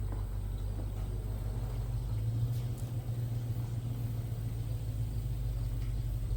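A motor running at a steady speed, a low even drone.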